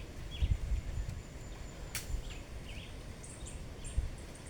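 Small birds chirping, many short high notes repeated throughout, over a low rumble, with a single sharp click about two seconds in.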